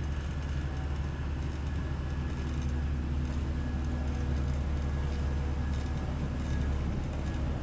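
Komatsu GD555 motor grader's diesel engine running with a steady low drone.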